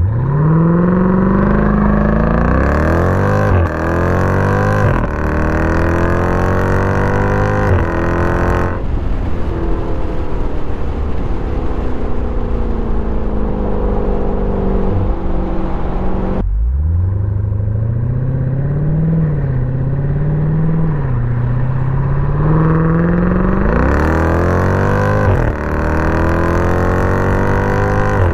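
Jeep Grand Cherokee SRT 6.4-litre V8 through a mid-muffler-deleted 3-inch X-pipe exhaust, accelerating hard. The pitch climbs, drops briefly twice and climbs again, then the throttle comes off after about nine seconds. It falls in pitch while decelerating, then accelerates hard again with a rising pitch and holds high near the end.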